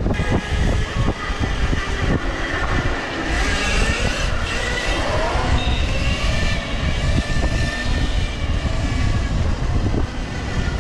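Riding noise from an e-bike in motion: wind rumbling on the microphone and the bike rattling over the road surface, with a faint steady high whine.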